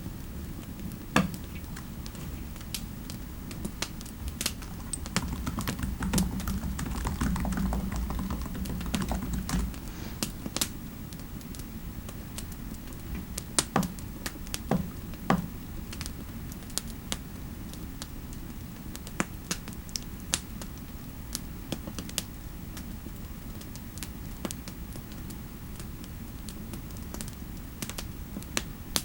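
Irregular keystrokes of typing on a computer keyboard over a steady low background of fireplace ambience. A louder, low, muffled rumble sits under the typing for a few seconds about six seconds in.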